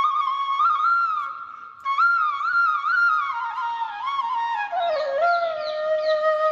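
Background music: a solo flute melody with sliding, bending notes and a short break in the phrase about two seconds in.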